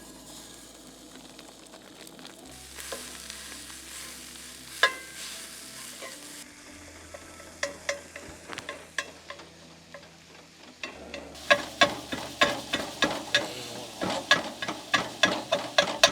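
Food sizzling as it fries in a pan, while a utensil stirs and scrapes against the pan. A sharp knock comes about five seconds in. The scraping clicks grow quicker and louder in the last few seconds, about three a second.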